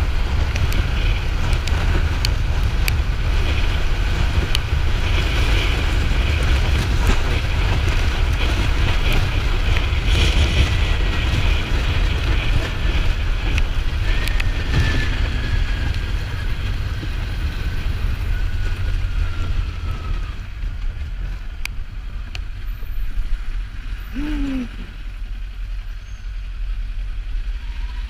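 Kawasaki Ninja 400 being ridden, heard from the rider's microphone: steady wind rush and road noise over the parallel-twin engine. The noise drops noticeably about twenty seconds in.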